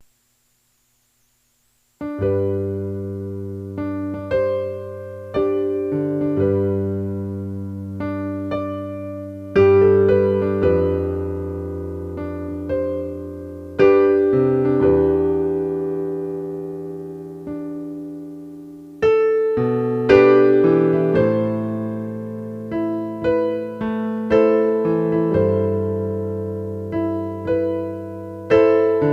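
Slow background piano music: struck notes and chords that ring and fade, starting about two seconds in.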